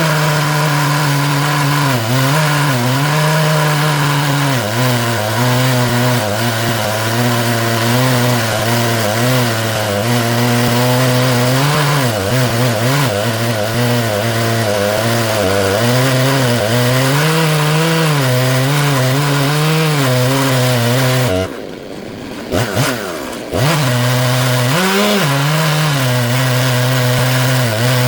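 Stihl MS 661 two-stroke chainsaw on an Alaskan chainsaw mill, running at full throttle as it rips through a black walnut log, its engine pitch wavering with the load. About 21 seconds in it drops off briefly, blips, then revs back up and carries on cutting.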